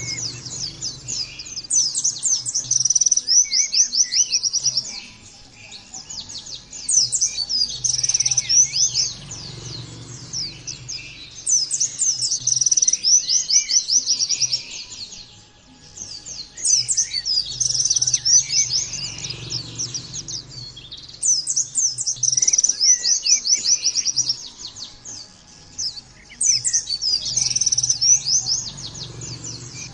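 White-eye (pleci) singing: fast, high-pitched twittering chatter in bouts of two to four seconds with short pauses between, about six bouts.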